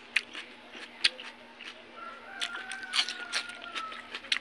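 Close-up chewing of crunchy raw vegetables, many short crisp crunches. About two seconds in, a rooster crows faintly in the background for about two seconds.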